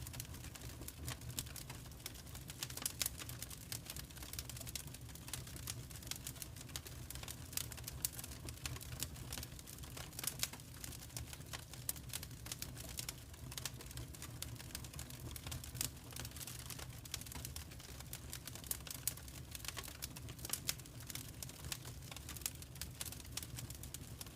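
Wood fire crackling in a fireplace: irregular, sharp pops and snaps over a steady low rumble.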